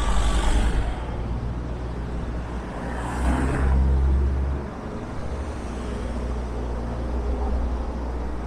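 Road traffic: vehicles passing, loudest around the start and again about three to four and a half seconds in, over a steady low hum.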